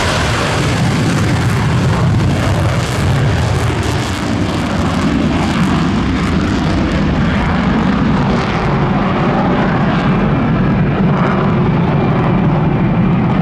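Jet fighter flying overhead, with loud, steady engine noise; the high hiss thins out in the second half as the jet draws away.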